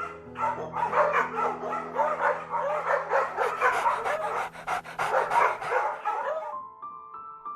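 A dog giving a rapid run of short yips and whines over soft background music, stopping about six and a half seconds in and leaving only the music.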